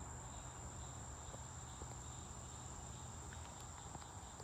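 Faint, steady high-pitched insect trilling, typical of crickets, with a low steady hum underneath.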